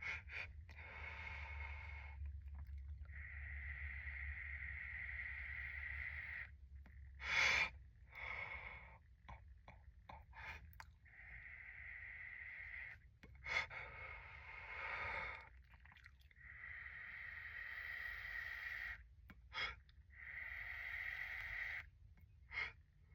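Long, airy inhalations drawn through a smoking piece, several pulls of a few seconds each with short pauses between, broken by a few short sharp sounds, the loudest about a third of the way in.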